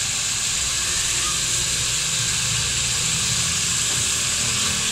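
Potatoes and mongray (radish pods) frying in masala in a metal pot: a steady sizzling hiss.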